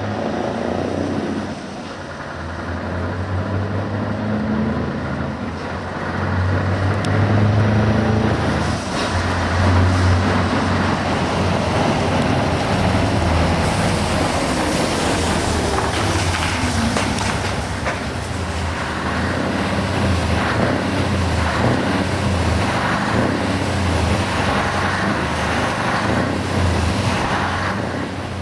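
Scania R 580 truck's 16-litre V8 diesel engine running as the truck moves, its low engine note swelling and easing again and again.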